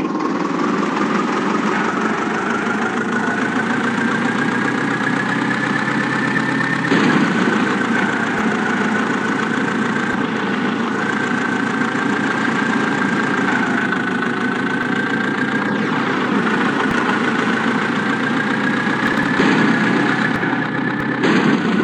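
A toy vehicle's small motor running steadily, with a whine that slowly rises and dips in pitch.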